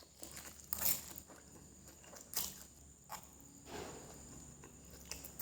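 Faint, sparse clicks and soft rustles, three or four in all, over a steady faint high-pitched whine.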